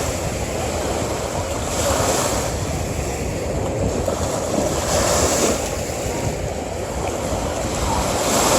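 Ocean surf breaking and washing on a beach, a steady rush that swells with each wave about every three seconds.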